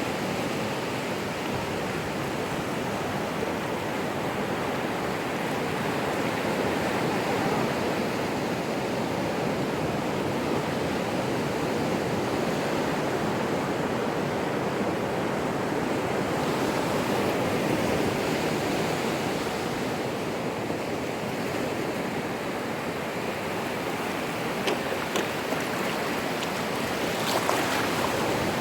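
Ocean surf: waves breaking and washing continuously in a steady rush of water noise, with a few brief clicks near the end.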